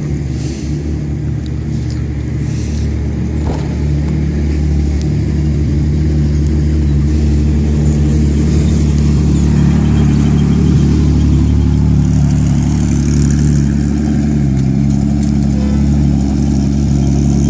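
An engine running steadily with a low, even hum, growing slightly louder over the first few seconds.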